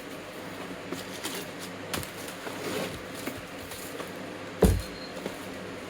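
Handling boxed engine parts on a workbench: a few light knocks and one loud thump about two-thirds of the way through, over a steady low hum.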